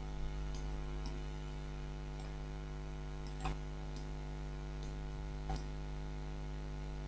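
Steady electrical mains hum, a stack of constant tones, with two faint clicks in the middle.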